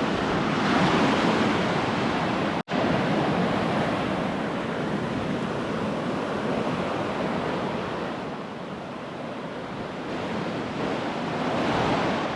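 Ocean surf washing onto a beach: a steady rush of waves that swells about a second in and again near the end. The sound cuts out for an instant about two and a half seconds in.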